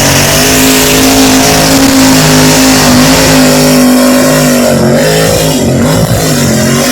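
Mud bog truck's engine run at high revs through the pit, loud and held steady, its pitch wavering and dipping about two thirds of the way through. It's loud, but the truck is not moving as fast as it sounds, which onlookers put down to probably too low a gear.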